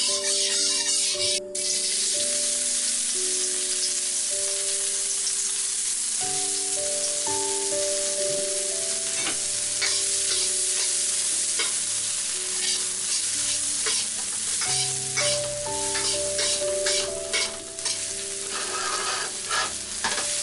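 Chopped onion and garlic sizzling in hot oil in a wok, stirred and scraped around the pan with a metal spatula in irregular strokes that come thicker in the second half.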